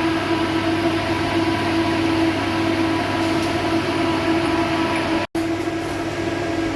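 Workshop machinery running steadily with a constant hum, cut off for an instant about five seconds in.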